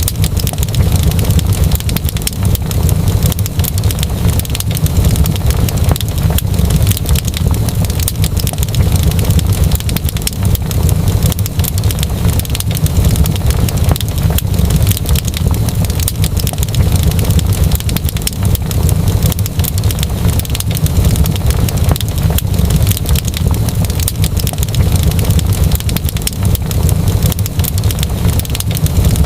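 Fireplace fire crackling: a steady low rumble with many quick, irregular crackles and pops throughout.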